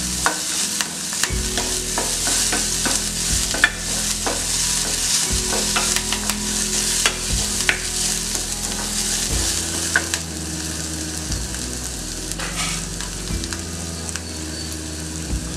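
Chopped onion, garlic, green chilli and curry leaves sizzling in hot oil in a steel kadai while being stirred with a plastic spatula, with scattered sharp clicks and pops. The sizzle eases a little about ten seconds in.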